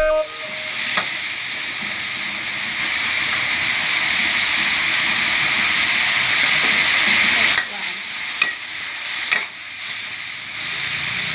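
Food sizzling in hot oil as it is stir-fried, with a few sharp metal clinks of a spatula; the sizzle drops off suddenly about seven and a half seconds in.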